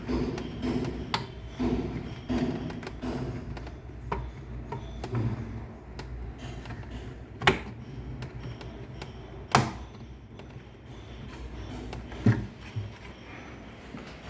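Scattered clicks and knocks, with three sharp knocks standing out: about seven and a half, nine and a half and twelve seconds in.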